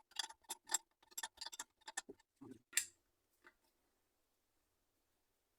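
Faint, uneven metallic clicks and taps, about three or four a second, from hand tools and engine parts being handled while a motorcycle engine's cylinders are fitted. There is one duller knock and a last sharp click about halfway through, then the sounds stop.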